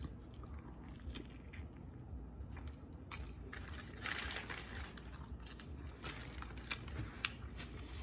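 Close-up chewing of a mouthful of breakfast burrito: soft wet smacks and small mouth clicks, with a brief louder rustle a little after four seconds in.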